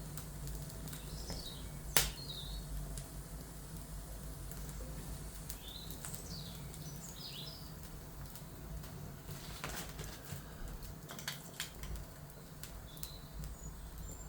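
Wood fire crackling, with scattered sharp pops (the loudest about two seconds in), over a low steady rumble. Birds chirp briefly several times.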